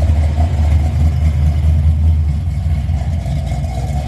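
A car engine idling close by, a steady low rumble that holds even throughout.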